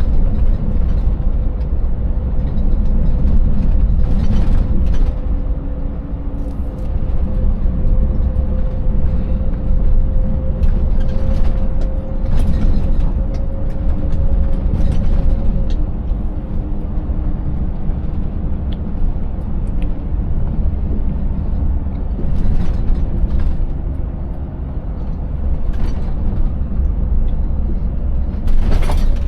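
Scania 590S truck's 16-litre V8 running under way: a steady deep rumble with a faint whine that climbs slowly in pitch over the first half. Scattered clatters and knocks come as the rig goes over the broken road surface, the loudest near the end.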